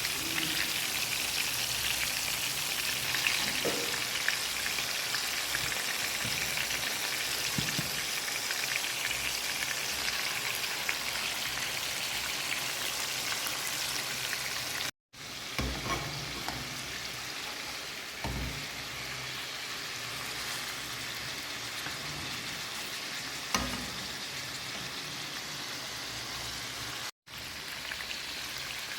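Marinated chicken pieces frying in hot oil in a pan: a steady sizzle, with a few soft knocks of a utensil as the pieces are stirred. The sound cuts out briefly twice, about halfway and near the end.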